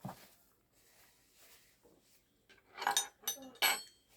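A metal spoon clinking against a plate: a soft knock at the start, then a few sharp clinks with a brief metallic ring about three seconds in and again just before the end.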